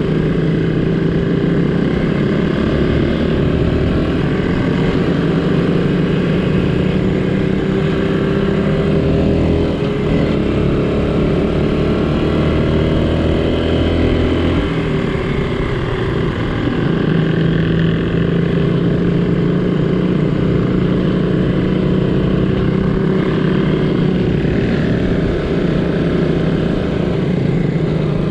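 Small vintage Honda motorcycle engine running under way. Its pitch climbs slowly for about the first half, then drops and holds steady.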